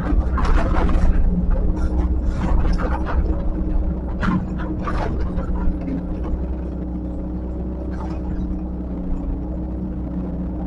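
Heavy earthmoving machine's engine running steadily, with several short scraping or hissing bursts over it in the first five seconds and once more near the end.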